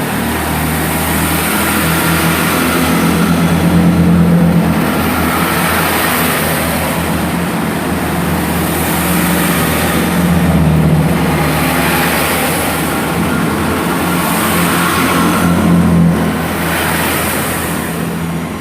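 Class 165 diesel multiple unit, three units coupled, accelerating away from the platform. The underfloor diesel engines drone past one after another, the sound swelling to its loudest about four, eleven and sixteen seconds in.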